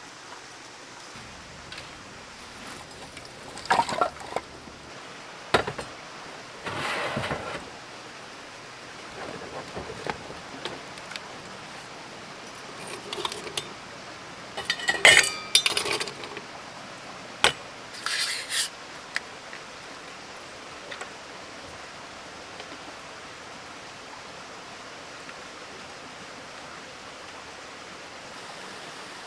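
Scattered clinks, knocks and clattering of metal gear and dishes being handled, loudest about halfway through, over a steady background hiss.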